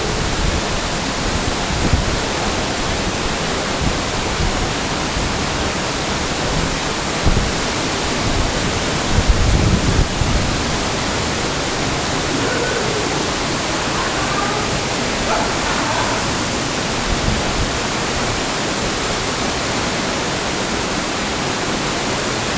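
Steady rush of water from a waterfall close to the microphone, a dense even hiss, with a few low thumps around the middle.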